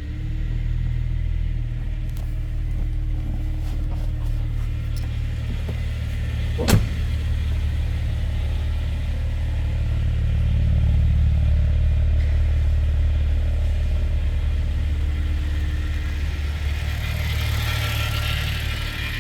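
The 3.0-litre twin-turbo V6 of a 2014 Maserati Ghibli S idling steadily during an engine test, with a single sharp click about a third of the way in and a hiss rising near the end.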